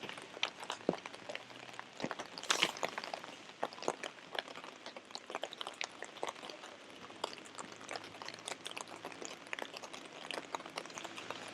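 Rain falling, with many irregular close-by drop taps over a faint hiss.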